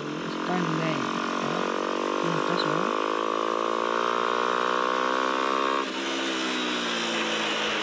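Motorcycle engine accelerating, its pitch climbing steadily for about six seconds, then dropping suddenly as the throttle is eased or a gear is changed.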